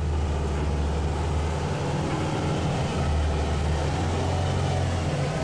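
Heavy truck engine running with a steady low drone.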